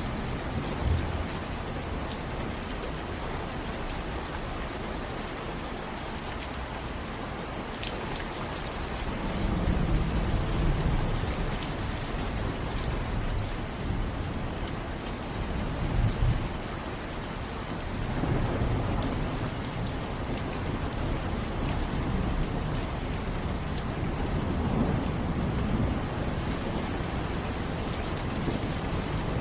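Steady rain pattering down, with low rumbles of thunder rolling in several times, the sharpest about sixteen seconds in.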